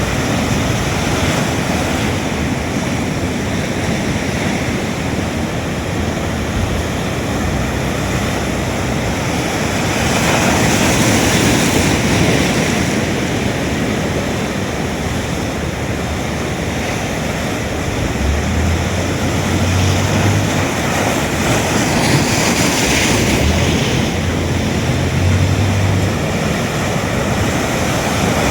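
Ocean surf breaking in a continuous wash of noise, swelling louder twice as bigger waves break.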